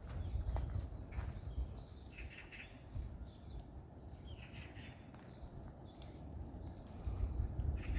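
Small forest birds chirping in short clusters of high calls, several times over, above an uneven low rumble that grows louder near the end.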